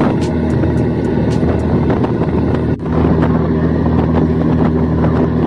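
Boat engine running with a steady low drone, over a rush of wind and water, with a brief break about halfway through.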